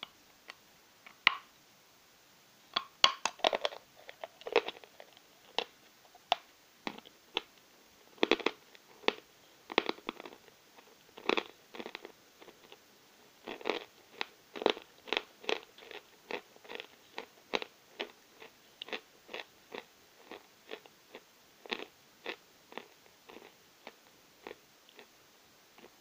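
Close-up crunching of someone biting and chewing a lump of Novy Oskol chalk: a few loud bites, then steady chewing crunches about two a second.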